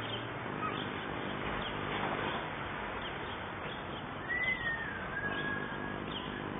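Outdoor ambience: a steady hiss with scattered short bird chirps, and one longer whistled call that slides downward about four seconds in.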